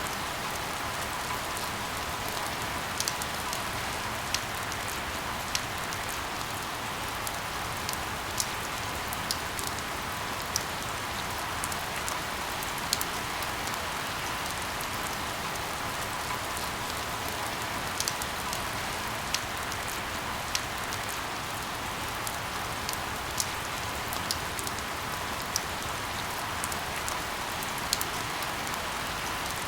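Steady rain falling with an even hiss, with individual drops tapping sharply at irregular moments every second or two.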